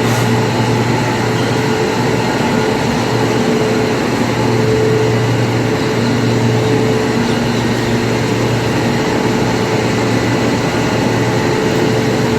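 Mumbai Monorail train running: a steady, even running noise with a constant low hum and a fainter steady higher tone.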